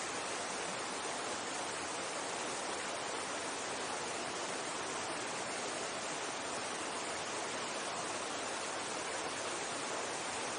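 Mountain stream rushing steadily, an even hiss of running water with no breaks.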